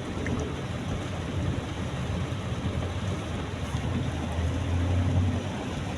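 Steady low rumble of a car driving in heavy rain, heard from inside the cabin, with a hiss of rain over it. The rumble swells briefly about four and a half seconds in.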